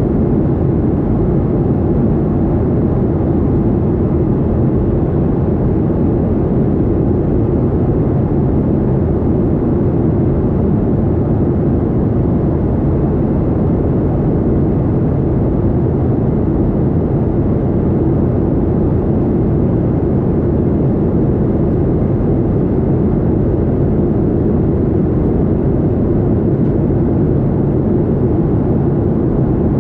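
Steady roar of a Boeing 737-800 airliner in flight, heard from inside the passenger cabin, even throughout.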